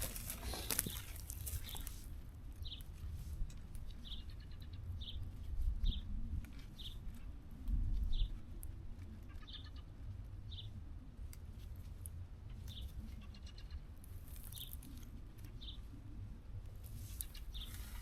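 A small bird calling, giving short high chirps about once a second, over a steady low wind rumble. Rustling and clicks of plants being handled in the first couple of seconds and again near the end.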